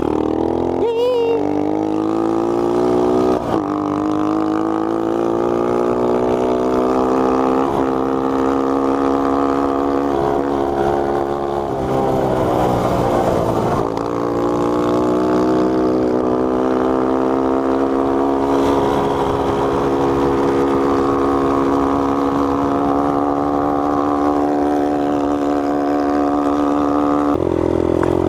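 Small single-cylinder four-stroke engine of a 1986 Honda Z50R minibike under way, its pitch climbing as it accelerates. It drops briefly about halfway through, then climbs again and holds a steady note.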